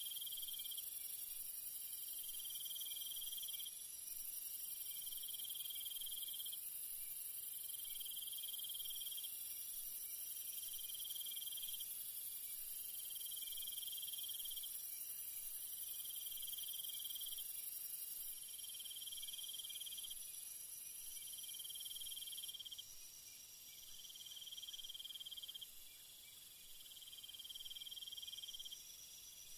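Crickets and other insects calling in a steady high-pitched chorus, with one trill repeating about every two and a half seconds; the chorus thins a little in the second half.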